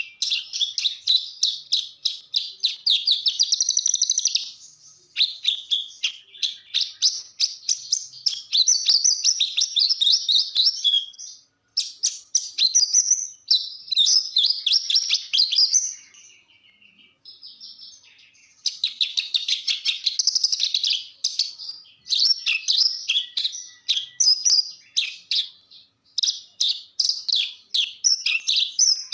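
A Javan bush lark (branjangan) singing a long, fast chattering song of rapid high notes, broken by a few short pauses and a longer lull about two-thirds of the way through.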